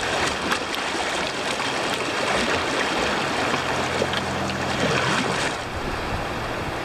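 Rushing whitewater of a river rapid, a steady roar of churning water that eases a little about five and a half seconds in.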